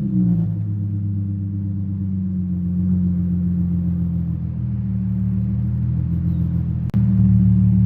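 Infiniti G35's VQ35HR 3.5-litre V6 idling through a straight-piped exhaust, muffler and resonators deleted, just after starting up; a steady, deep idle with one brief click and dropout about seven seconds in.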